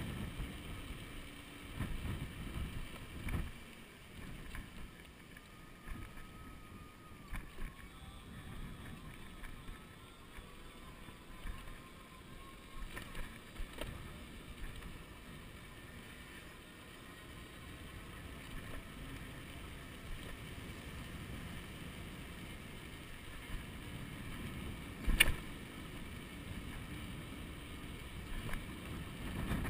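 Wind buffeting the microphone and tyre noise from a moving electric bicycle, in uneven low gusts. A single sharp click near the end.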